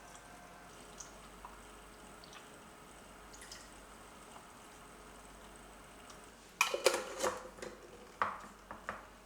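Quiet kitchen room tone with a few faint ticks, then, about two-thirds of the way in, a quick run of sharp clinks and knocks of kitchenware being handled.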